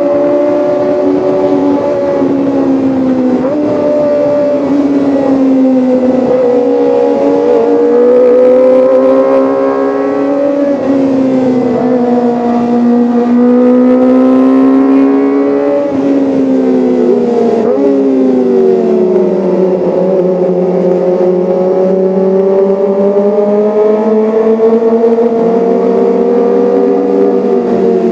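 Kawasaki ZX-25R's 250 cc inline-four engine running continuously at high revs. Its pitch swings slowly up and down, with a few sudden drops and jumps in pitch.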